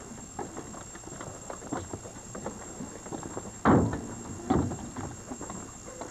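Footsteps while walking: a run of short, irregular taps, with two louder thumps about three and a half and four and a half seconds in.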